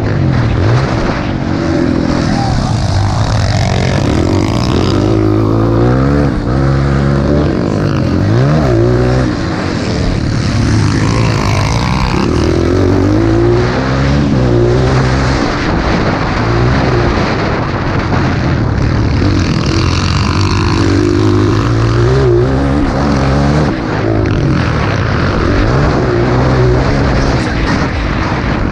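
Motocross bike engines revving up and down, the pitch rising and falling again and again, loud throughout.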